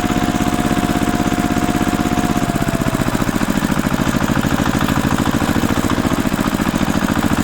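Vehicle engine running at a steady, fast beat; about two and a half seconds in, its note changes and a thin high whine over it fades away.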